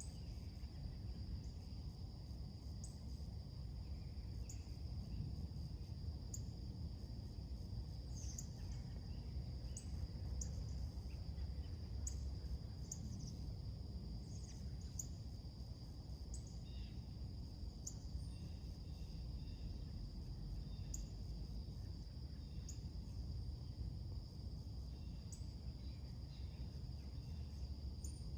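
Summer morning outdoor soundscape: a steady high trill of crickets, with short, high bird chirps every second or two over a low background rumble.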